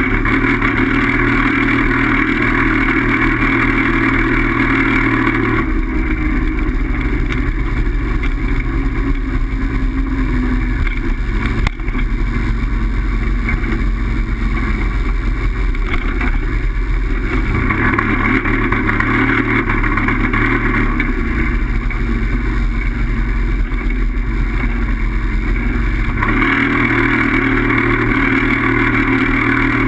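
Steady loud rumble of wind and road noise from a bike in motion, with a single sharp knock about twelve seconds in.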